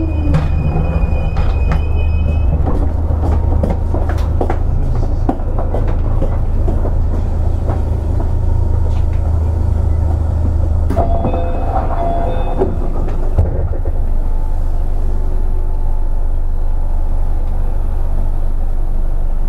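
Running noise inside a Keio 8000 series electric train: a steady low rumble of wheels on rail with scattered clicks over the joints. A brief high tone, like a squeal, comes about eleven seconds in.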